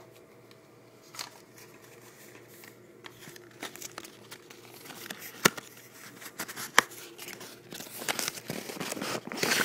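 Packaging being handled and crinkled while items are unpacked: scattered rustles, two sharp clicks in the middle, and a busier stretch of crinkling near the end.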